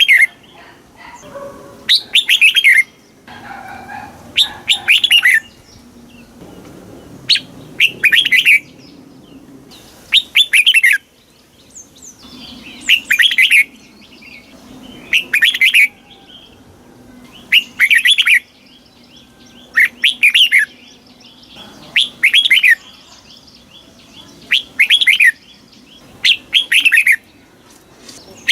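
Red-whiskered bulbul singing: short, loud, bright phrases repeated about every two seconds, each a quick run of a few whistled notes.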